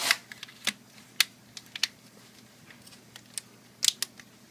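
Small laptop parts clicking and tapping as a clip is pressed back into place, one side first: a dozen or so sharp, irregular clicks, the loudest near the start, about a second in and near the end.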